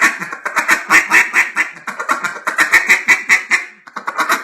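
JJ Lares A5 single-reed duck call blown in a rapid run of short, quacky notes several a second: single-cut feed chatter.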